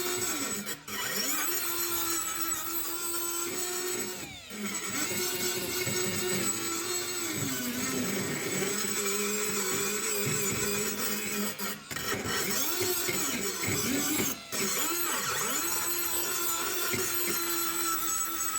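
Small electric power tool motor running in long stretches, its pitch sagging and recovering as it is pressed into the work, with several short breaks.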